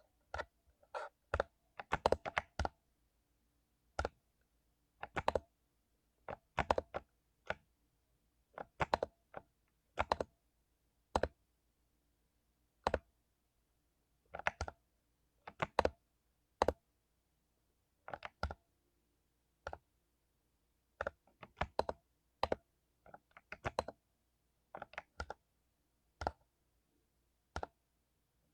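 Mechanical keyboard with lubed Cherry MX Silver linear switches being typed on unevenly: single keystrokes and quick clusters of several, with pauses of a second or more between them.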